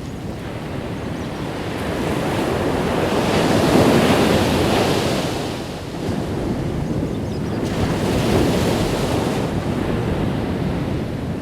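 Ocean waves breaking and washing on a beach, with wind on the microphone. The surf swells to a peak about four seconds in, eases, then rises again with a second wave near the end.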